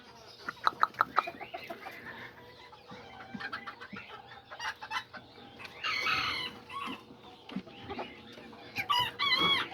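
Kikiriki bantam chickens clucking, with a quick run of clucks about a second in. A rooster crows, and arched calls come near the middle and again near the end.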